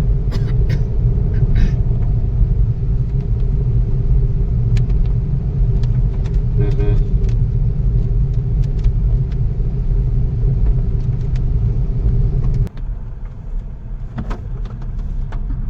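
A vehicle driving along a road: a loud, steady low rumble with an even engine hum. About three-quarters of the way through, the hum stops abruptly and the rumble quietens.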